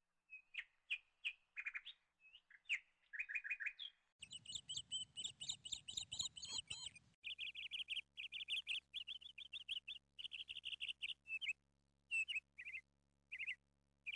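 Small birds chirping: quick series of short, high chirps and trills with brief gaps, changing abruptly about 4 and 7 seconds in as one recording gives way to another.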